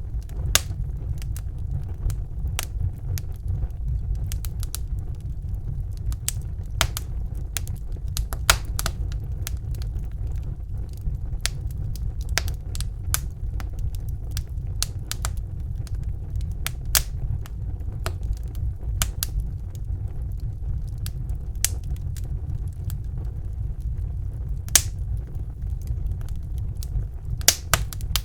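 Wood fire crackling in a fireplace: irregular sharp pops and snaps over a steady low rumble, with a few louder pops near the end.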